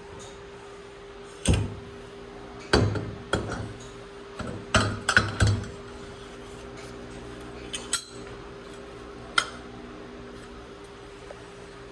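Metal tools and parts clinking and knocking during motorcycle fork work, a cluster of sharp strikes in the first half and two more later, over a steady hum.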